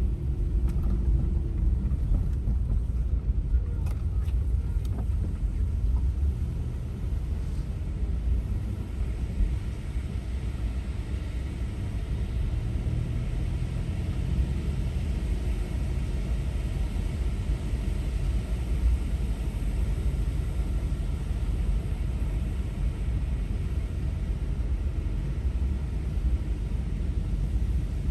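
Steady low rumble of a van driving on the road.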